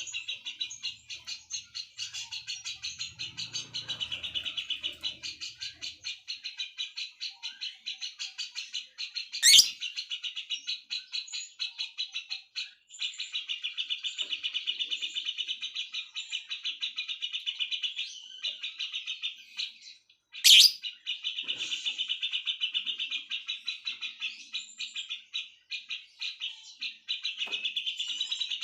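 A bird singing long runs of rapid, evenly repeated chirping notes, broken by a few short pauses. Two loud, sharp calls stand out, one about a third of the way through and one about two thirds through.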